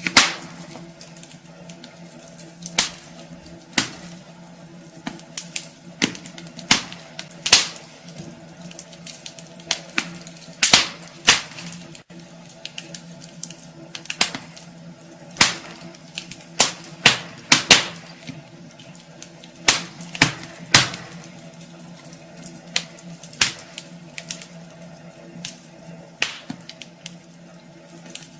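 Wood fire crackling in a fireplace: irregular sharp pops and snaps, a few of them loud, over a faint steady low hum.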